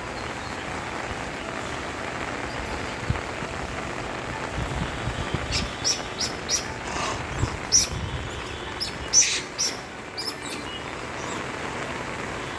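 Steady rain falling, with a run of about a dozen short, high bird chirps from about five seconds in to about ten seconds in.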